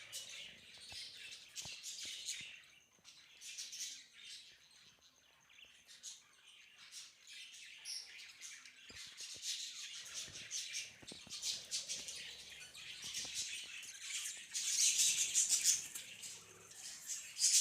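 Budgerigars chirping and twittering continuously, getting busier and louder in the last few seconds.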